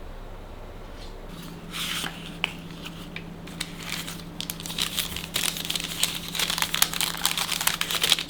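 Crinkling and crackling, a dense run of crackles starting about two seconds in and growing busier toward the end, over a faint steady hum.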